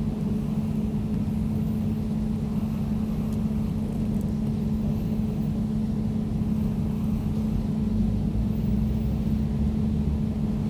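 Air conditioner running: a steady, even drone with one held humming tone over a low rumble.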